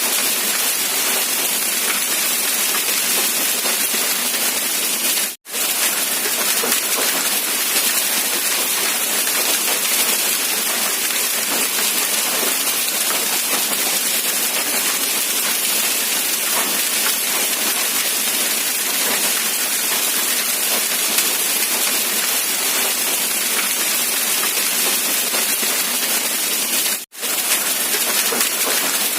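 Steady rain falling, an even hiss of drops that cuts out for an instant twice.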